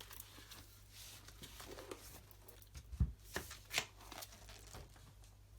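Paper rustling as a large book is handled, with a few knocks about three seconds in, the first a dull thump.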